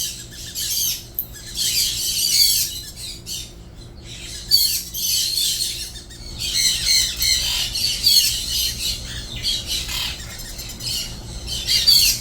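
Sun conure giving harsh, screeching squawks in repeated bouts, the protest calls of a parrot being held down for a nail and wing trim.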